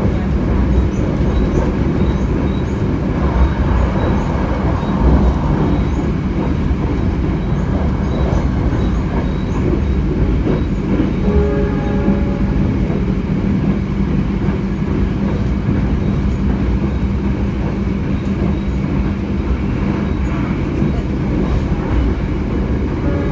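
Running noise inside a moving stainless-steel passenger coach: a steady rumble of wheels on rail with a constant low hum underneath.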